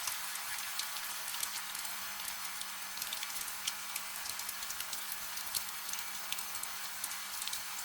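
Steady, gentle rain: an even hiss with many individual drops ticking sharply on a surface, without thunder.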